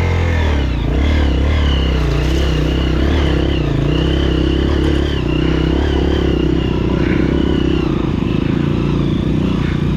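Honda CRF230F dirt bike's air-cooled single-cylinder four-stroke engine running under way at a steady pitch.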